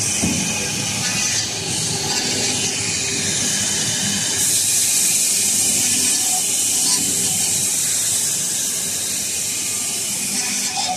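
Wood-door CNC machine running with a steady high hiss, which grows stronger about four seconds in and eases near the end.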